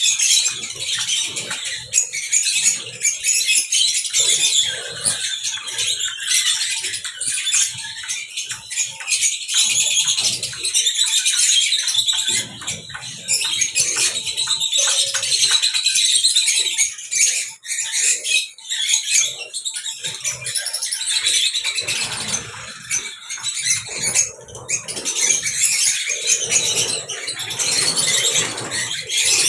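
Many small caged birds chirping and chattering together in a dense, continuous twitter, with scattered clicks.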